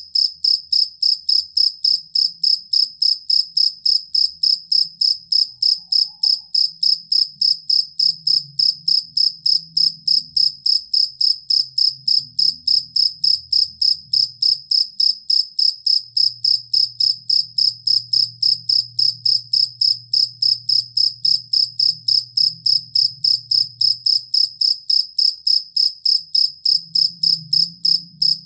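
Field cricket (jangkrik) chirping loudly and steadily: a high, clear chirp repeated evenly, about three times a second. A faint low hum runs underneath.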